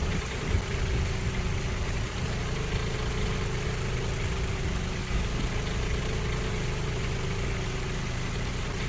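Construction machine's engine idling steadily, a low even rumble with no change in speed.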